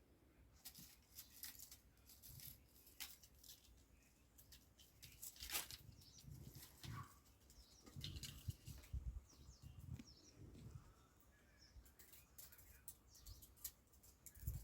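Faint, irregular scratching and clicking with a few soft thumps: a kitten clambering and clawing about on stacked firewood.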